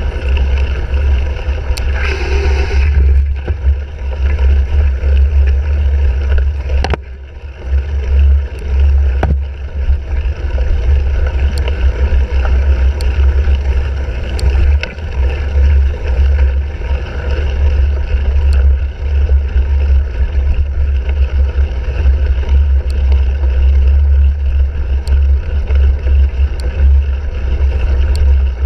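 Wind buffeting the microphone of a handlebar-mounted action camera on a cyclocross bike being raced, a steady heavy low rumble mixed with tyre noise and frequent sharp clicks and rattles from the bike over rough ground. The rumble drops briefly about seven seconds in.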